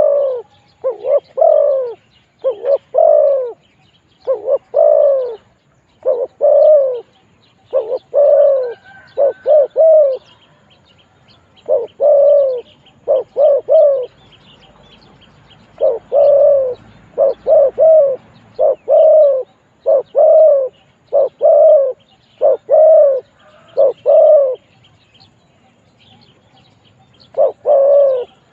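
Spotted dove cooing over and over in short phrases of two to four low notes, each note falling slightly in pitch. The calling pauses briefly around the middle and again near the end. Faint chirps of small birds sound above it.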